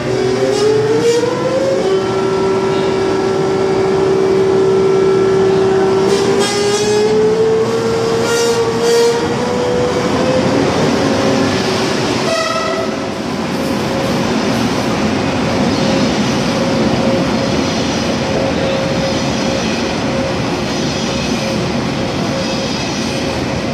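Passenger train moving through a station platform. A steady drive whine shifts in pitch and glides upward about a third of the way in, mixed with rolling noise from the wheels on the rails. Near the middle comes a brief horn toot.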